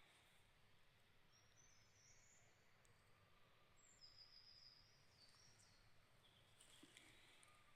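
Faint birdsong: several short, high chirping phrases from songbirds, one about two seconds in, a longer one around four to five seconds, and another near seven seconds, over a soft steady background hiss.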